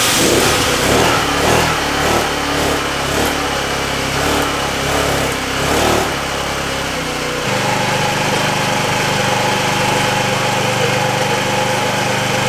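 A 50cc scooter's 139QMB single-cylinder four-stroke engine runs just after starting. For about the first seven seconds it runs unevenly, its pitch rising and falling, and then it settles into a steady idle. The owner puts the rough running down to poor fuel delivery from the carburetor.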